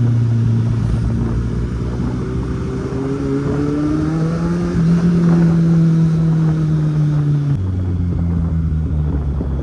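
Kawasaki Z800's inline-four engine running under way, its pitch climbing as the bike accelerates, then dropping suddenly about seven and a half seconds in as the throttle is closed or a gear is changed.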